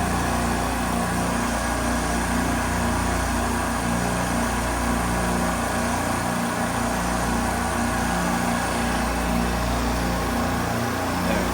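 Steady drone of running machinery with an even low hum underneath, unchanging throughout.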